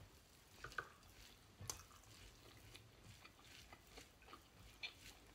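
Faint eating sounds: chewing and wet mouth smacks from people eating rice and pork by hand, with a few small sharp clicks scattered through.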